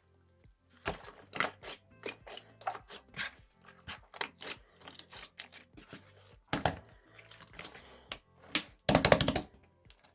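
Slime in a plastic zipper bag being squeezed and burst by hand: irregular sharp pops and clicks, with a dense rapid crackle about nine seconds in, the loudest part.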